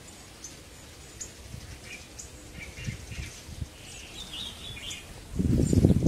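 Birds calling with sharp, high ticks and short chirps. Near the end a loud low rumble comes in and drowns them.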